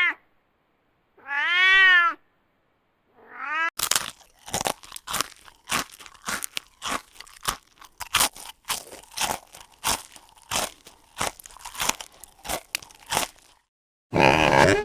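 Domestic cat meowing twice, then a long run of sharp crunching clicks, about two to three a second, for roughly ten seconds. A loud, different sound cuts in near the end.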